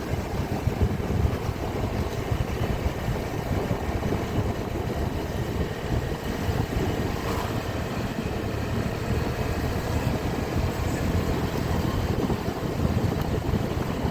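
A vehicle travelling along a road: a steady engine and road rumble with wind buffeting the microphone.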